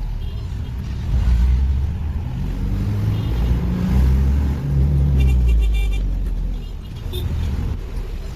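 Motor vehicle running on the road: a low engine and road rumble whose pitch rises and falls as it drives.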